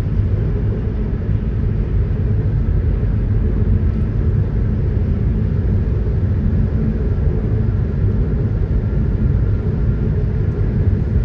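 Steady low road rumble and engine noise of a moving vehicle, heard from inside the cabin.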